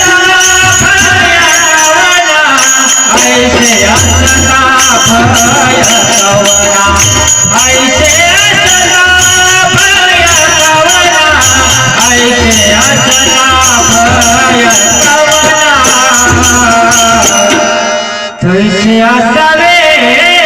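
Devotional singing of a Marathi abhang, with small cymbals striking a steady beat and a drum underneath. It breaks off for a moment near the end and starts again.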